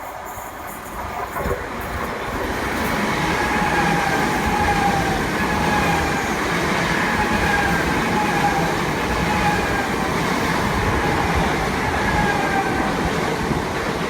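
Electric passenger train running through the station at close range: wheel rumble and hiss that build over the first few seconds and then hold steady, with a faint whine over them.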